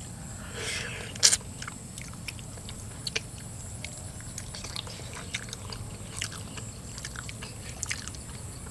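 Two people chewing and biting into spicy stir-fried eel eaten by hand, with many small wet mouth clicks and smacks and one sharper click about a second in.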